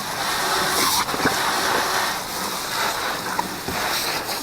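Steady spray of water rinsing a truck's body, a continuous rushing hiss.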